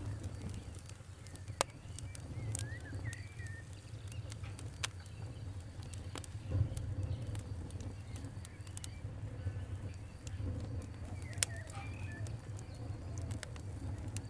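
Wood fire crackling: a steady low rumble with scattered sharp pops and snaps, the loudest a few seconds apart. Faint bird chirps come and go in the background.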